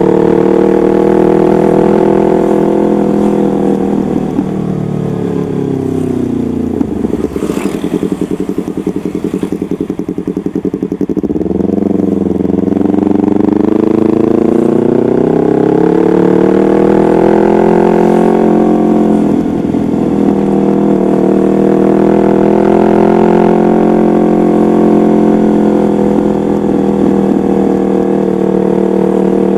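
Yamaha MT-25's parallel-twin engine running through a custom exhaust. The pitch falls to a low pulsing note about a quarter of the way in, then climbs steadily again, with a short dip and recovery a little past halfway.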